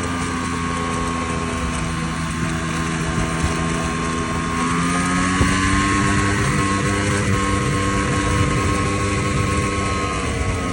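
Vespa LX50 scooter engine running while riding, its pitch rising slightly about halfway through and then holding steady. This is the strange running noise the owner is concerned about.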